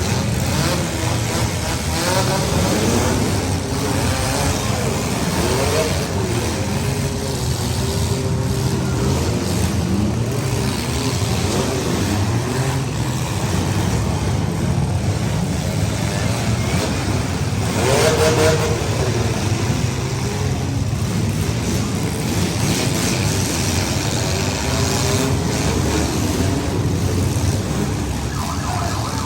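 Several compact cars' engines running and revving together in a demolition derby, their pitches rising and falling as they accelerate. A short louder surge comes about two-thirds of the way through.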